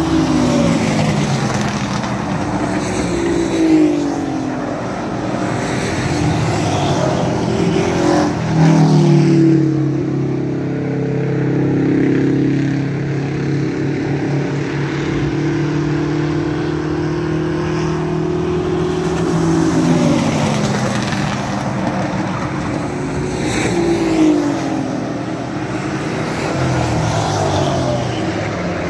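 Several race truck engines running hard around an oval track. Their pitch drops as they lift for the corners and climbs again down the straights, with trucks passing close by a few times.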